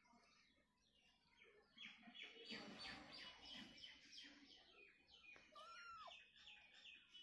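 Faint small birds chirping rapidly in the background, beginning about two seconds in, with one short rising-then-falling call near the end.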